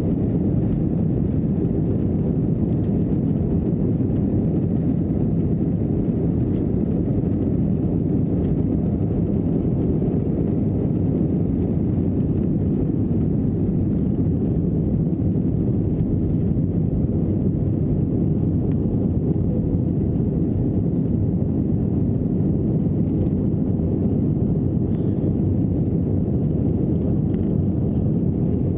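Steady low rumble inside the cabin of an Airbus A321 airliner: engine and airflow noise holding an even level throughout.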